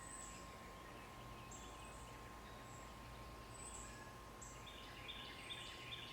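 Faint outdoor birdsong: short, thin, very high notes about once a second, with a quick run of chirps near the end, over a steady background hiss and a faint constant hum-like tone.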